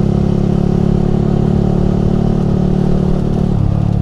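Yamaha R15 V3's 155 cc single-cylinder engine running through an aftermarket Ronin Musashi exhaust at steady throttle while riding, its note shifting slightly lower about three and a half seconds in.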